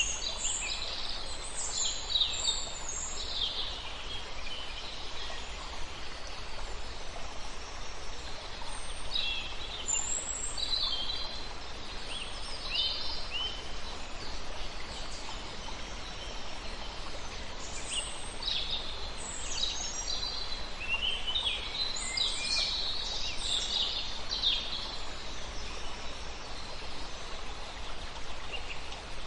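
Songbirds singing in bursts of quick, high chirping phrases over a steady rushing background of river water.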